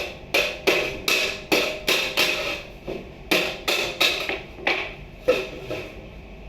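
Hammer blows in a steady run of about fourteen strikes, two or three a second, each with a short ringing tone, as in nailing during building work.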